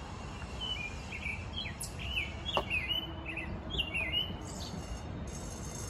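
A small bird chirping a quick series of short notes that sweep up and down in pitch, over a steady low rumble. A faint high hum sets in near the end.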